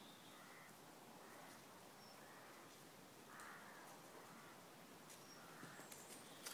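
Near silence outdoors, with faint, distant bird calls now and then.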